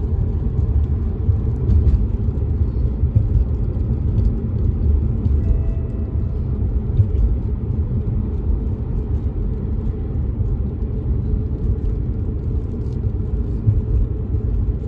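Steady low road and engine rumble inside a car driving in the rain, with faint scattered ticks of raindrops on the car. A brief faint tone sounds about six seconds in.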